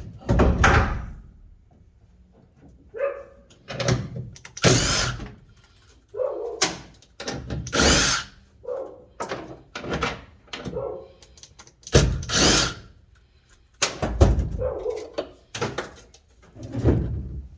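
A dog barking repeatedly. Between the barks come loud, short bursts of tool or metal-working noise.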